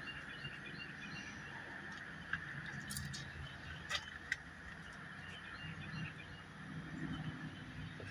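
Faint outdoor background with scattered bird chirps, and three sharp light clicks around the middle.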